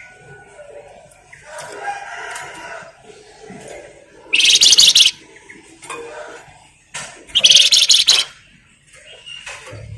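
A flamboyan songbird chattering, with softer calls and then two loud, very rapid high-pitched rattling trills, each under a second long and about three seconds apart.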